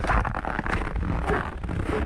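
Footsteps on snow at a steady walking pace, about three steps, over wind buffeting the microphone.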